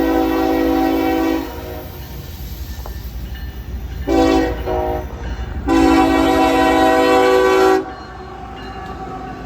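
CSX freight locomotive air horn sounding a grade-crossing signal: a long blast ends about a second in, a short blast follows, then a final long blast of about two seconds. A steady low rumble of the passing train runs underneath.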